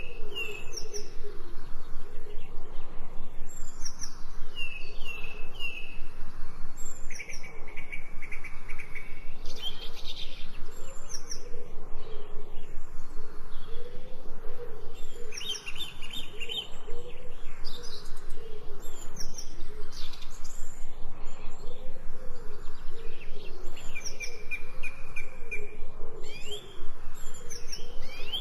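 Several birds chirping and trilling in short high phrases, over repeated low wavering cooing calls.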